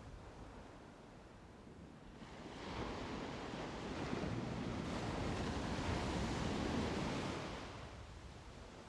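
A broad rushing noise swells up about two seconds in, holds for several seconds and fades away near the end.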